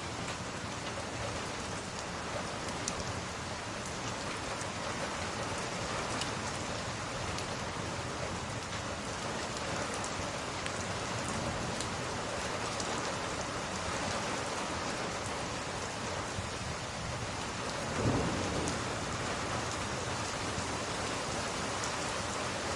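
Steady rain falling, with a brief low rumble of thunder about three quarters of the way through.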